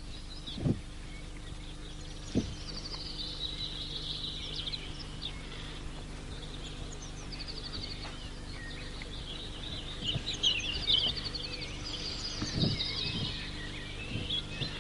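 Small birds singing, with quick chirps and fast trills of repeated high notes, over a steady low hum. A few short low thumps, the sharpest about two and a half seconds in.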